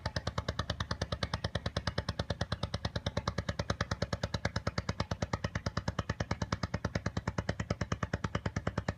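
A rapid, even train of clicks, about ten a second, holding a steady pace throughout.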